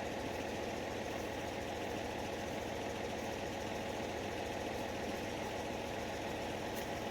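Tractor engine idling steadily, with an even low pulse.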